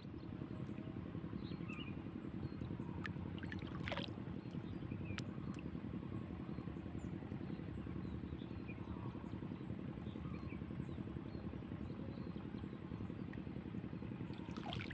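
Steady low drone of a small engine running, with a thin steady high whine above it and a few light clicks.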